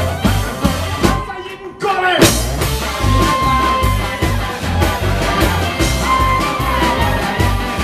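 Live band music with a steady, pulsing bass beat and sustained melody notes. The band stops briefly about a second in, then comes back in with a rising slide.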